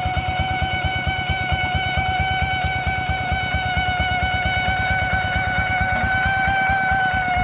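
Paddy-field tractor engine running steadily, its exhaust beating in a fast, even rhythm of about ten pulses a second. A steady high whine runs over it throughout.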